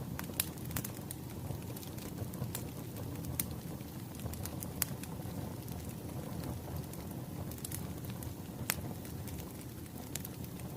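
Wood fire crackling: a steady low rumble of burning logs with scattered sharp pops, one louder pop near the end.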